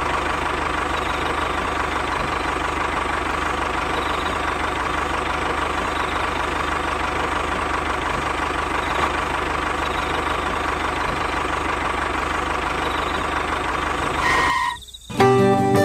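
A motor running steadily with a fine rapid pulse and a faint steady whine, cutting off abruptly near the end.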